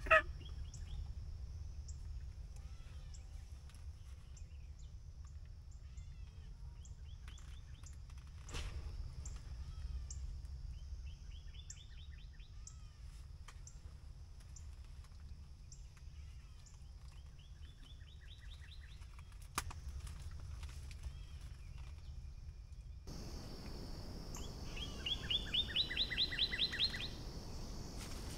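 Small birds calling: a few quick trills of chirps that rise in pitch, the clearest one near the end, over a low steady outdoor rumble.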